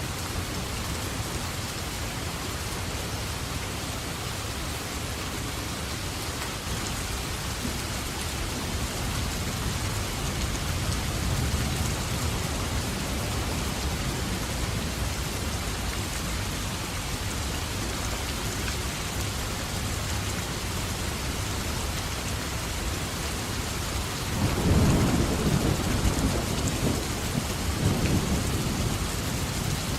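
Steady heavy rain falling, with a thunder rumble rolling in about three-quarters of the way through and dying away near the end.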